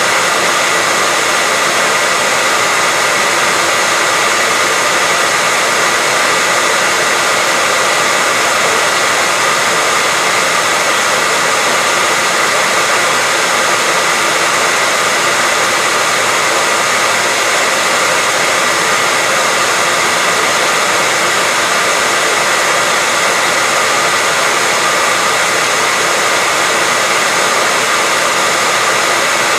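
Hair dryer running steadily: a constant, even rushing of air with a steady whine in it, without pause or change in speed.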